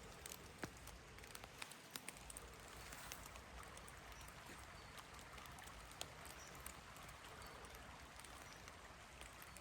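Near silence: a faint steady rush of flowing river water, with a few scattered small ticks.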